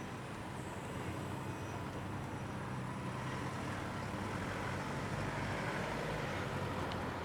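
Road traffic passing over a railway level crossing: a steady vehicle rumble that swells through the middle and eases near the end.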